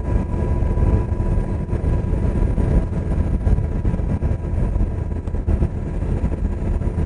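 UH-60 Black Hawk helicopter in flight, heard from inside the cabin: its rotor and turbine noise runs steadily and is heaviest in the low range, with a faint steady tone riding above it.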